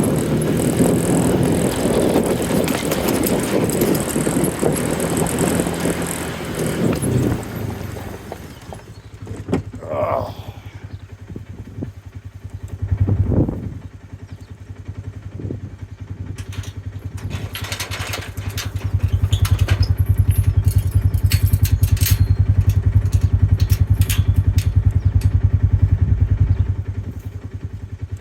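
A farm vehicle's engine running, loud for the first several seconds, then dropping away. It comes back as a steady low hum for several seconds near the end.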